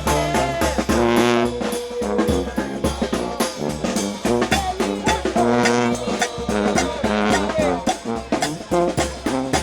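New Orleans brass band playing a second-line tune: trombones and trumpets in held, repeated chords over a steady drum beat.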